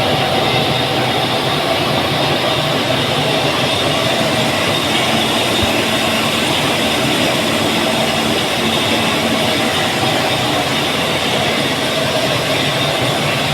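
Steel pipe mill machinery running: a loud, steady industrial din with a few steady tones through it.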